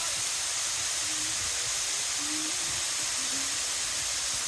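Steady rush of falling or flowing water, an even hiss that does not change.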